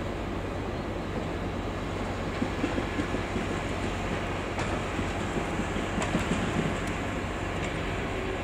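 Train running through a station with a steady hum, its wheels clacking over rail joints in two short runs, about two and a half and six seconds in.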